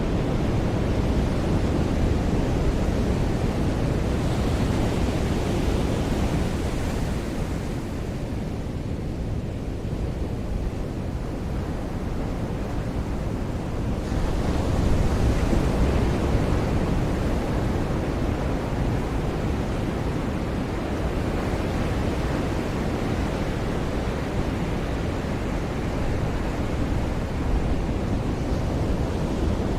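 Ocean surf on a beach: a continuous rushing wash of breaking waves, swelling louder as waves break about four seconds in and again about fifteen seconds in.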